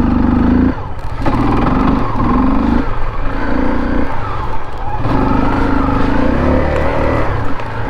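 Motorcycle engine running under repeated bursts of throttle, its note rising and dropping off about six times, over a steady low rumble of wind and road.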